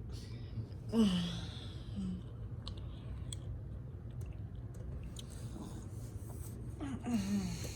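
A person's voice making two short sounds that fall in pitch, like sighs, one about a second in and one near the end, over a steady low hum.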